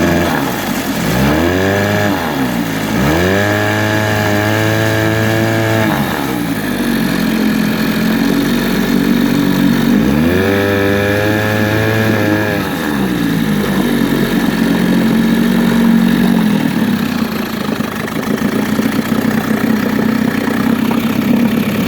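1980s Mercury 9.8 hp two-stroke outboard motor running well, revved up three times: briefly about a second in, held for about three seconds soon after, then again about ten seconds in. Each time it drops back to idle, and it idles steadily for the last eight seconds or so.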